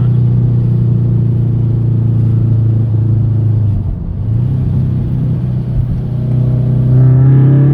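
Subaru BRZ's flat-four engine and exhaust, fitted with a Magnaflow direct-fit catalytic converter and resonator, running steadily while cruising, heard from inside the car. The note dips briefly about four seconds in, then rises as the car speeds up near the end.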